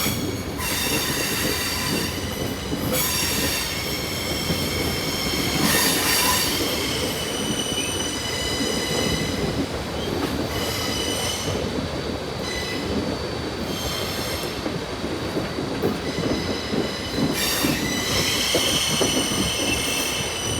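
Passenger train running, its steel wheels squealing against the rails in high, ringing tones that come and go over a steady rumble.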